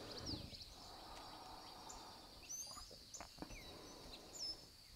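Quiet room tone with faint birds chirping, short quick calls scattered throughout, and a few soft clicks a little past the middle.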